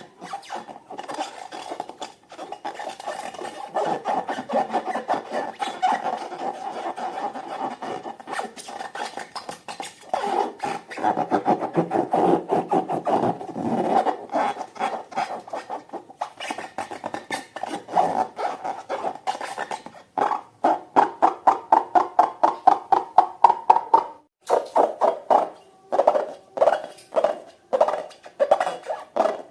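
Slime being stirred and scraped in a bowl, a dense run of rubbing strokes that settles into a rhythm of about three to four strokes a second after about twenty seconds. Background music plays underneath.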